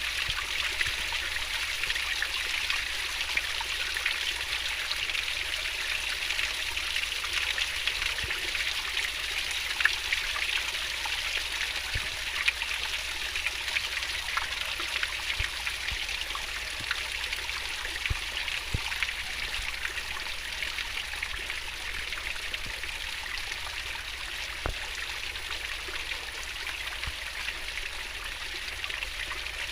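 Stream water rushing and babbling over rocks, a steady splashing flow with small drips and gurgles throughout.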